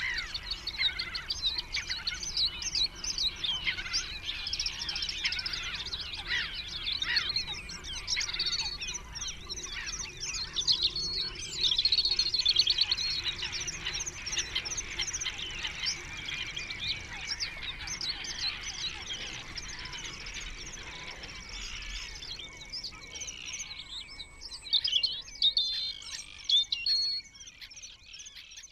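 Songbirds singing: a dense stream of rapid, overlapping chirps and trills.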